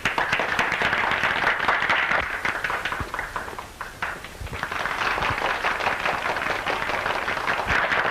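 Crowd of dancers clapping and applauding, dipping briefly about three to four seconds in and then picking up again.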